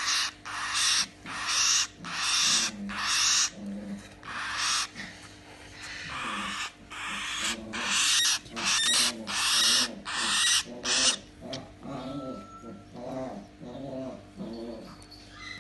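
Cockatiel chick's raspy, hissing begging calls during hand feeding, repeated about once a second, then giving way near the end to softer low pulsing in a quick rhythm.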